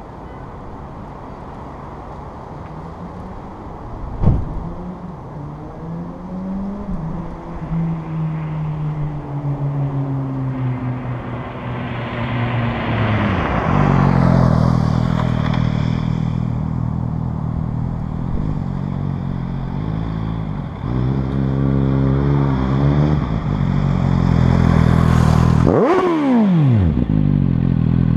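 Suzuki GSR750 inline-four motorcycle engine through a Scorpion aftermarket exhaust. After a faint hiss and a sharp knock about four seconds in, the engine pitch climbs in steps and glides down, then runs steadily with a short rev, and near the end a fast sweeping drop in pitch as the bike passes by.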